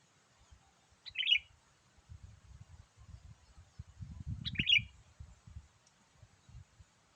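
Sooty-headed bulbul (kutilang) giving two short, bright chirpy calls, one about a second in and another about three seconds later, over a faint low rumbling.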